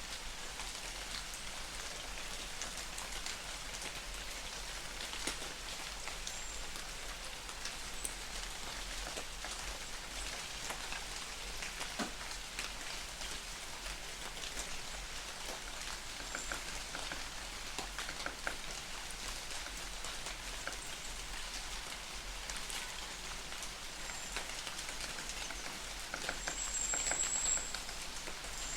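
Light rain falling in a forest: a steady patter of drops with many single drips ticking through it. A few brief, faint high chirps come through the rain, the longest near the end.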